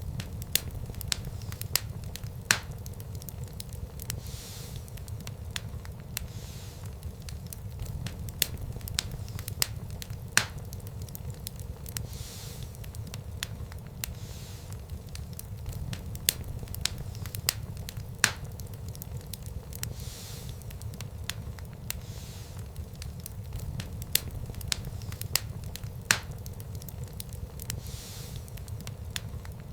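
Wood fire burning in a fireplace: a steady low rumble of the flames, with irregular crackles and a few louder pops of burning wood.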